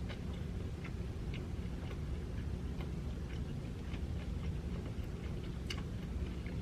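Faint, irregular crisp clicks and crackles of chewing, as a crunchy egg roll is eaten close to the microphone, over a steady low hum.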